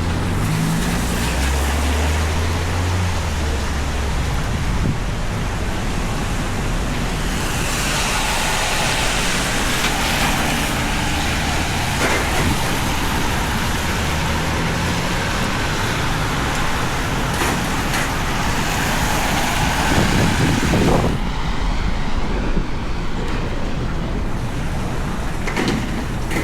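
Heavy rain falling steadily on a city street, mixed with road traffic: a vehicle engine's low rumble in the first few seconds and a louder vehicle passing about three-quarters of the way through.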